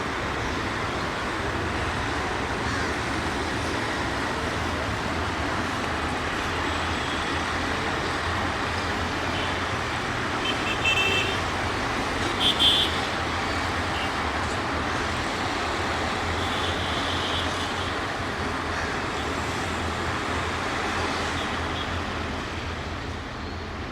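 Passenger train running past at speed: a steady rumble of wheels on the track, with short high tones about 11 and 13 seconds in.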